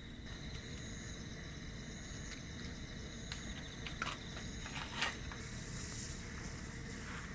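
Outdoor ambience: a steady low rush with insects trilling in thin, high, unbroken tones, and a few sharp clicks about four and five seconds in.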